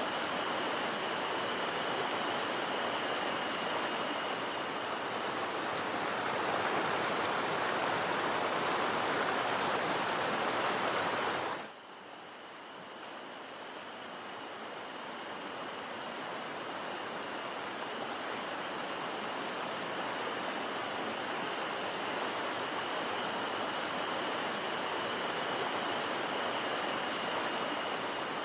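Mountain stream rushing steadily over rocks. About twelve seconds in it drops suddenly to a lower level, then slowly grows louder again.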